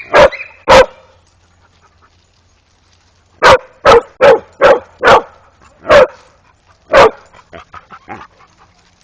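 A dog barking loudly in short single barks: two at the start, then after a pause a run of seven at roughly half-second to one-second intervals, followed by a few fainter barks near the end.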